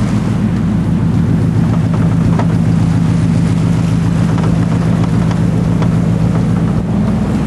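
Lifted Ford pickup truck's engine running steadily as the truck drives along, heard from outside the cab with wind noise over the microphone; the engine note shifts slightly near the end.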